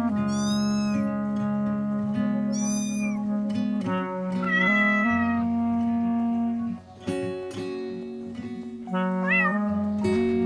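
Background music with steady plucked and held notes, with about four short, high-pitched cat meows laid over it, one near the start, one around three seconds in, one in the middle and one near the end.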